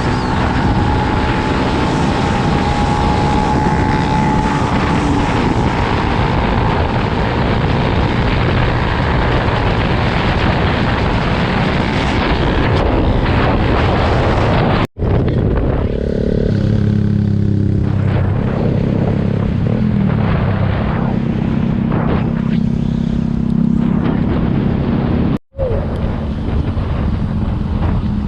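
Dirt bike engine running while riding, with heavy wind rushing over the microphone; the sound cuts out briefly twice.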